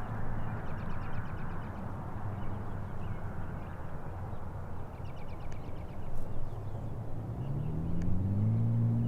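Steady low outdoor engine rumble. A bird gives two rapid high trills, and near the end an engine tone rises in pitch.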